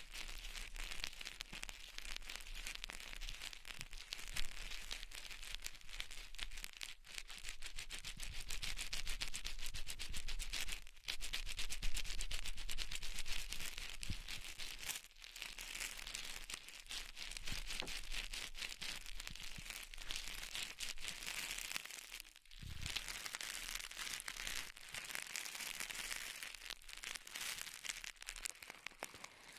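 Close-miked crinkling and crackling ASMR trigger sounds: a dense stream of fine, fast ticks, broken by short pauses every few seconds.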